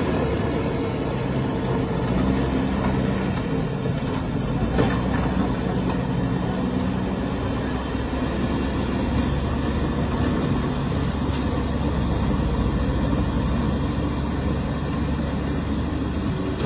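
Heavy truck engine running steadily, a continuous low drone.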